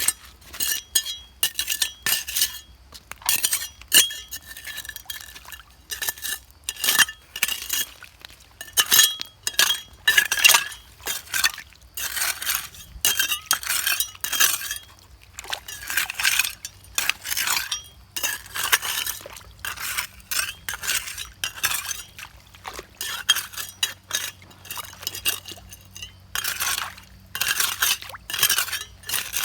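Hard objects clinking and knocking together many times at an irregular pace, some strikes ringing briefly.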